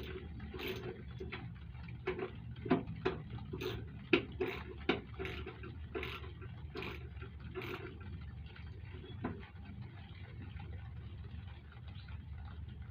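Irregular metal clicks, knocks and scrapes of hand tools and bolts being worked into the luggage rack mount, bolts that are going in stiffly, over a low steady hum. The clicks come thick for the first several seconds, then thin out to a few.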